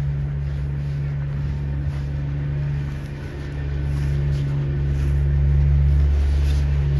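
Steady low drone of a nearby vehicle engine running, the loudest sound throughout. It holds one pitch and swells slightly past the middle.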